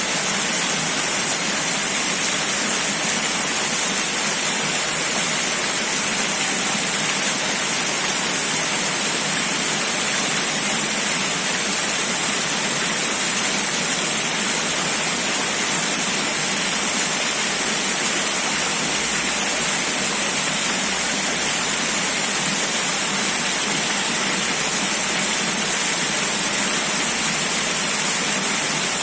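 Rushing water, a steady even noise that does not change.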